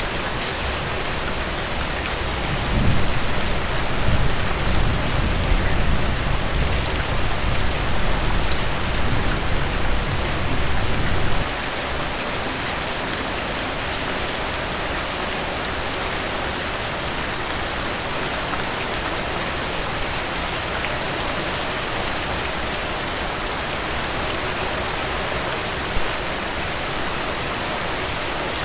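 Heavy rain falling steadily, with a low rumble of thunder from about three seconds in that cuts off abruptly about eleven seconds in.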